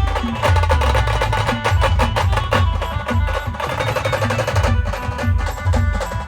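Band music for dancing: a steady, driving drum beat over heavy bass, with melody instruments playing sustained notes above it.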